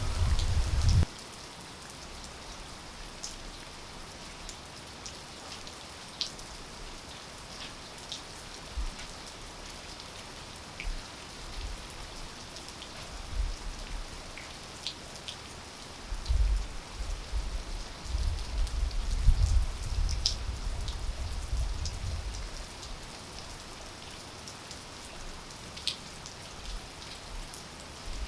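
Steady rainfall hiss with scattered sharp drips of water landing close by. A low rumble comes and goes, loudest between about 16 and 22 seconds in.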